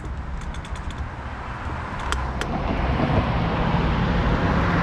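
A motor vehicle approaching, its noise growing louder from about halfway through, over a steady low rumble, with a few light clicks in the first half.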